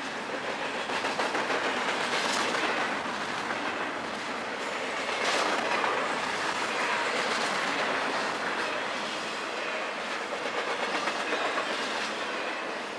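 Intermodal freight cars rolling past close by: a steady rumble of steel wheels on rail, with irregular clicks as the wheels pass over rail joints.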